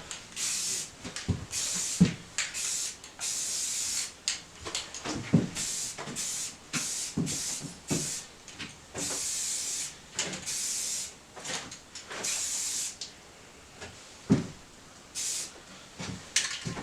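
Aerosol spray-paint can spraying in a dozen or so short hissing bursts, with knocks and handling sounds between them.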